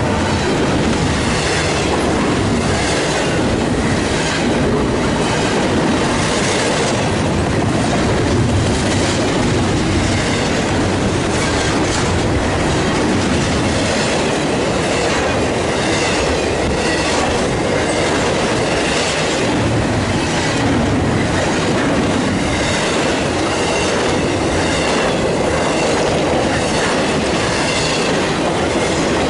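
Norfolk Southern intermodal freight train's container well cars and trailer flatcars rolling past close by: a loud, steady rumble of steel wheels on rail with a regular, repeating clatter as the trucks pass.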